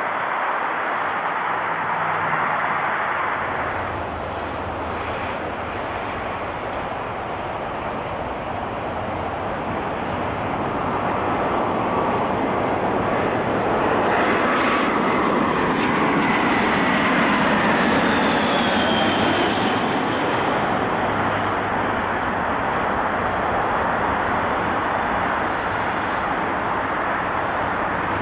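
Jet airliner passing at close range, its engine noise building to a peak about halfway through with a falling whine, then easing off.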